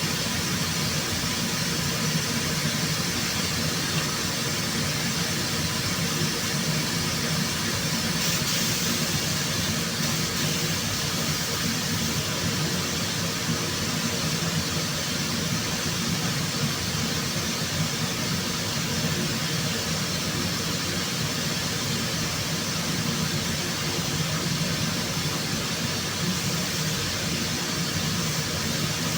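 Steady machine noise with an even hiss, unchanging throughout.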